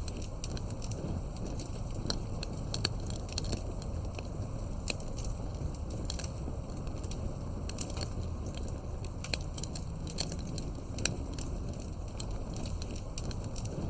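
Campfire crackling, with frequent sharp pops and snaps over a low steady rumble of flames.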